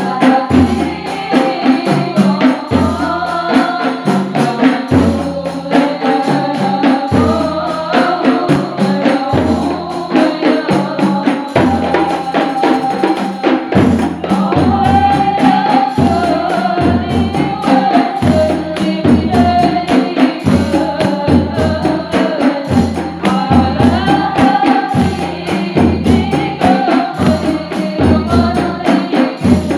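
Sholawat performed by a group: hand percussion with jingles and deep drum beats keep a steady rhythm while voices sing the melody together.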